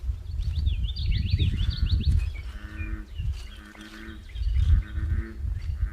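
Outdoor animal sounds over a heavy low rumble: a bird's quick chirps for the first two seconds or so, then a pitched animal call repeated several times, each under a second long.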